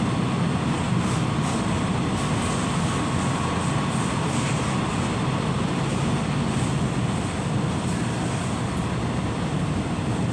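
Passenger train running along the line, heard from inside the carriage: a steady low rumble of wheels on the rails.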